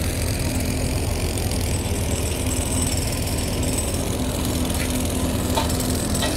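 An engine running steadily at idle, a constant low hum, with a few faint clicks near the end.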